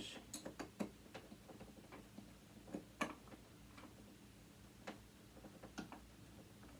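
Faint, irregular small clicks and ticks of a screwdriver working at a stubborn screw in a sewing machine motor, the sharpest about three seconds in.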